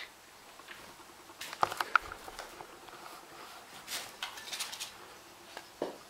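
A European robin moving about a room: light pattering taps, with two sharp taps shortly before two seconds in and brief rustling bursts around four to five seconds. A soft knock comes near the end.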